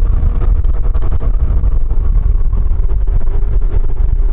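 Scooter with a belt-driven (CVT) transmission, riding at a steady speed: heavy wind rumble on the microphone over a faint engine hum that drops slightly in pitch in the second half.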